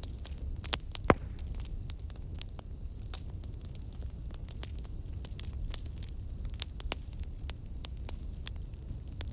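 Wood fire in a fireplace crackling, with irregular sharp pops and one loud pop about a second in, over a low steady rumble.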